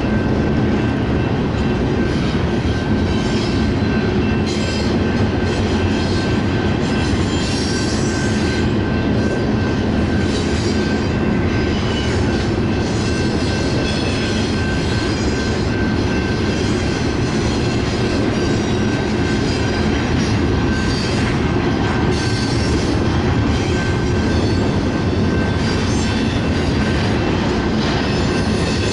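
A train rolling past at speed close by: a steady, loud rush of wheels on rail with a thin, steady high squeal from the wheels over it.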